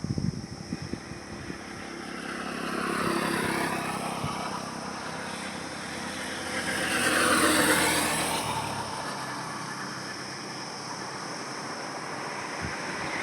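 Road traffic: vehicles passing along a highway, one swelling past a few seconds in and a louder one passing close about seven to eight seconds in, its engine and tyre noise rising and then falling away.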